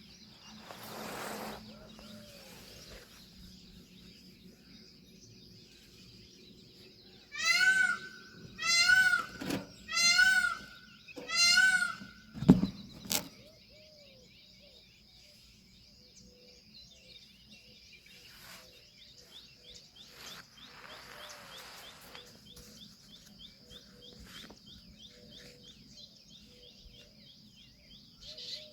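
Indian peafowl calling: four loud, arching calls in quick succession, each about a second long. A sharp knock follows, the loudest moment. A faint steady high insect drone and soft chirping continue underneath.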